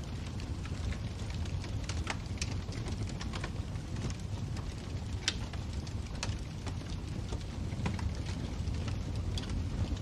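Wood fire in a fireplace crackling: irregular sharp pops and snaps over a steady low rumble of the flames, with one louder pop about five seconds in.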